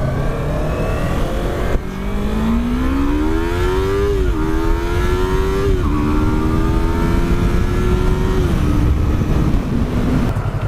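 Yamaha R3's parallel-twin engine accelerating from about two seconds in, its pitch rising, with upshifts near four and six seconds, then holding a steady cruise and easing off near the end, under a low wind rumble.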